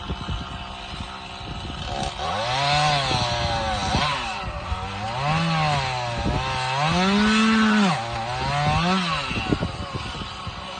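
Two-stroke chainsaw idling, then revved up and down about four times as it cuts into a tree trunk, before settling back to idle near the end.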